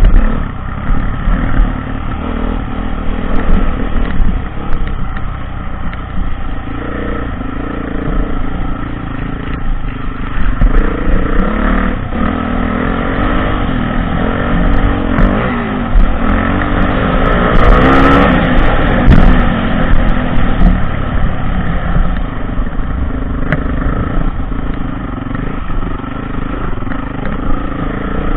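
Dirt bike engine running under changing throttle while riding off-road, its pitch rising and falling as it revs and eases off, loudest for a stretch about two-thirds of the way in.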